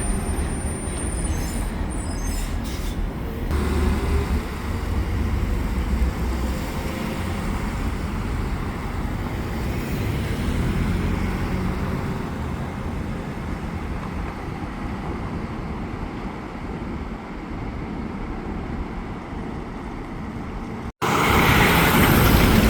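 Heavy trucks running on the road: a steady low engine rumble with passing traffic noise, and a brief high squeal in the first couple of seconds. About 21 seconds in the sound cuts abruptly to louder, fuller traffic noise.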